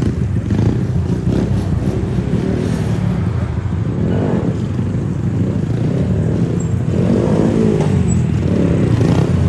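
Mini bike engines running, their pitch rising and falling a few times as they rev.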